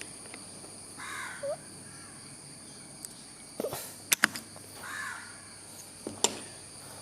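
A crow cawing, once about a second in and again near five seconds. A few sharp clicks come around four seconds in and just after six, and these are louder than the caws.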